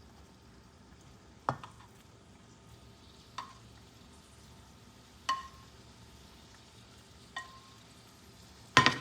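A utensil knocking against a frying pan about every two seconds as chicken and bell peppers are stirred together, over faint sizzling, with a louder clatter near the end.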